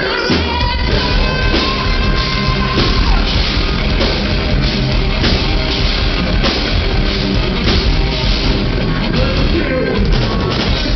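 Live rock band playing: electric guitars, bass guitar and drum kit together at a loud, steady level.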